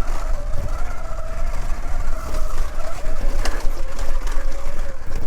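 Segway X160 electric dirt bike's motor whining at a nearly steady pitch while riding, over low wind rumble on the microphone, with one sharp click about three and a half seconds in.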